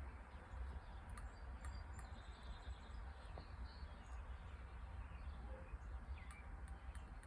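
Faint, scattered bird chirps over a low steady rumble, with a few small clicks.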